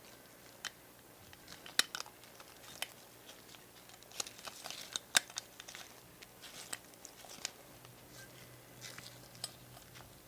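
Irregular small sharp clicks and taps with light crinkling, from hand work on the small parts of a model truck, busiest around the middle.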